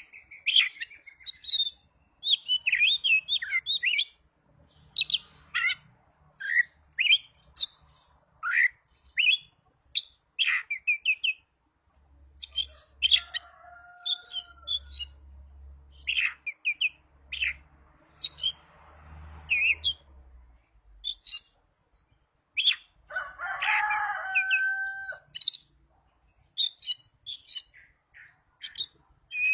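Oriental magpie-robin (kacer) singing: quick bursts of sharp chirps and whistles in short phrases with brief pauses between them. Twice, a lower drawn-out whistle sounds.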